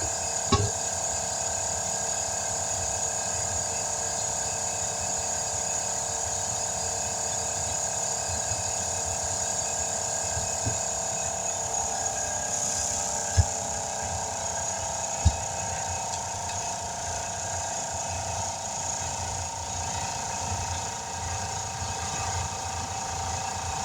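Steady machine hum made of several constant tones, with a few short sharp clicks: one just after the start and two more about thirteen and fifteen seconds in.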